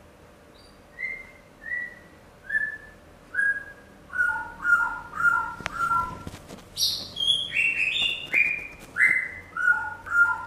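Bird calls: a run of short whistled chirps, one about every 0.7 seconds, starting about a second in, with a higher, quicker flurry of notes around the middle.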